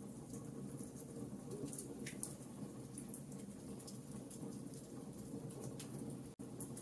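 Wood fire burning in a fireplace: a steady low rumble of flames with scattered sharp crackles and pops. The sound cuts out for an instant about six seconds in.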